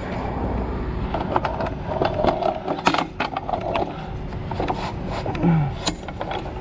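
Irregular knocks, clicks and scraping of hard objects being handled, over a low steady rumble.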